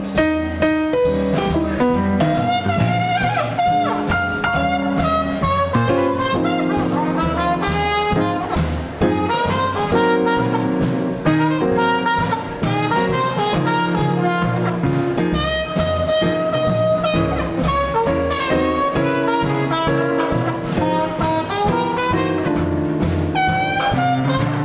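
Small-group swing jazz band playing live: saxophone and trumpet carry the melody over piano, bass and drums.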